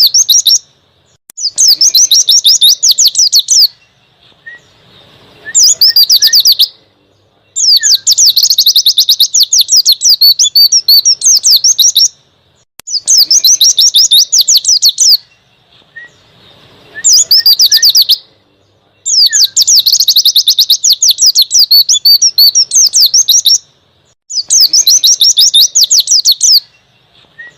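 White-eye (pleci) singing loud, rapid, high-pitched trilling phrases, each lasting one to five seconds, separated by pauses of about a second.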